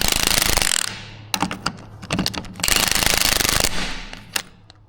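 Pneumatic impact wrench undoing the 21 mm nut on top of a front suspension strut, in two rattling bursts of about a second each. Scattered clicks come between the bursts.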